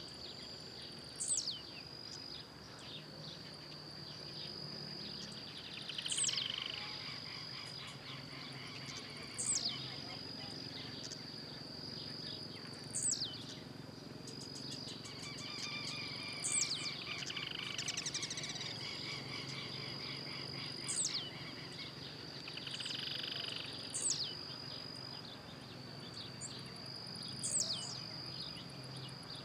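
Blue-black grassquit (tiziu) singing its short, sharp song note that slides steeply down in pitch, given eight times about every three to four seconds. A steady high insect drone runs underneath.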